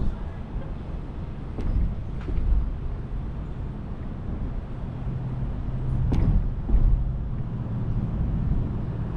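Car driving on a road: a steady low rumble of engine and road noise, with a few brief thumps, the loudest about six seconds in.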